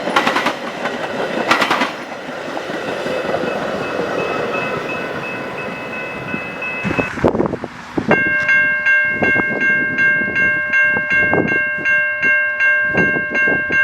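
A passing freight or commuter train, its wheels clacking over rail joints. After a cut about seven seconds in, a ringing tone repeats about twice a second, typical of a grade-crossing warning bell.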